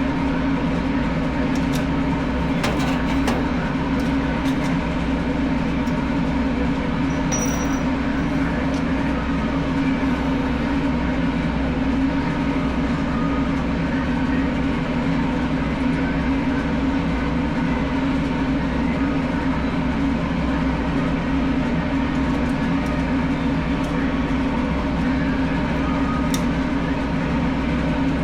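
Steady machine running noise with a low, even hum and a few steady tones, unchanging in level, with a few faint clicks.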